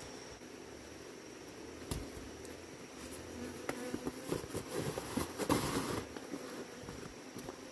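Bees buzzing with a steady hum, overlaid by rustling and clicking knocks in the middle.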